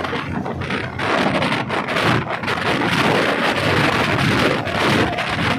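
Diesel multiple-unit train running, heard from inside the carriage: a loud, continuous rumble and rattle of wheels on track with rushing wind noise and frequent clatter.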